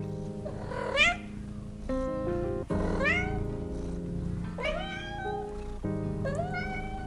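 A cat meowing four times over soft background music, each meow sliding upward in pitch.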